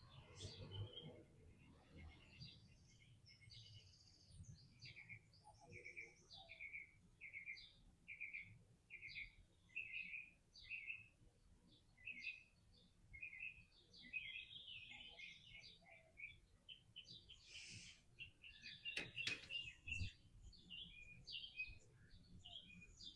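Faint bird chirping: a run of short, evenly repeated chirps at about two a second, then more varied twittering, with a faint knock or two about three-quarters of the way through.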